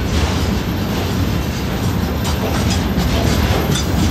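Freight wagons loaded with shipping containers rolling past close by: a steady heavy rumble of steel wheels on rail, with occasional sharp clicks from the wheels.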